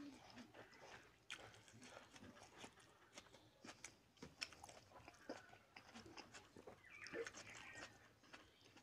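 Faint close-up chewing with wet mouth smacks, and soft squishing of fingers mixing rice into chicken curry, heard as many short scattered clicks.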